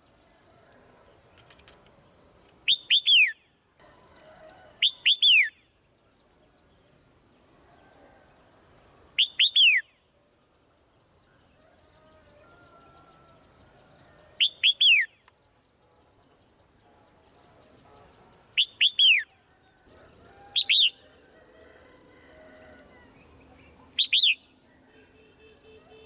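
Swallow calling: about seven short calls spaced a few seconds apart, each two or three quick chirps falling in pitch. A steady faint high hiss runs underneath.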